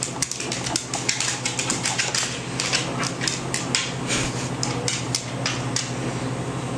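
Dog bowl knocking and clattering against the floor, rapid irregular clicks several a second, as a baby pushes and rides it along.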